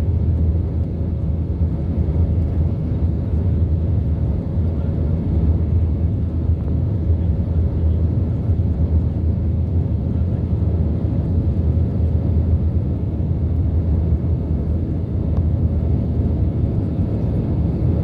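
Steady low rumble of an Airbus A320's engines and airflow as heard inside the passenger cabin, even throughout with no sudden changes.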